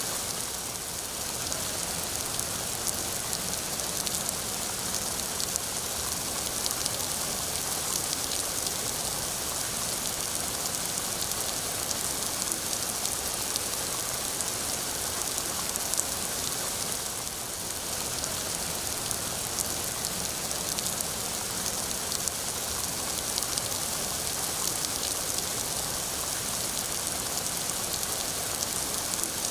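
Steady heavy rain: a dense, even hiss of falling drops with fine individual drop ticks.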